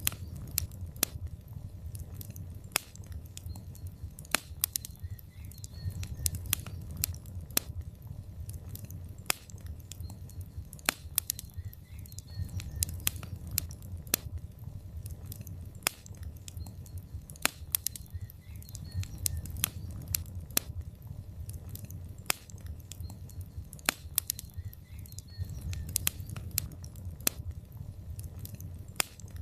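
Logs burning in a fireplace: irregular sharp crackles and pops, several a second, over a low steady rumble of the fire.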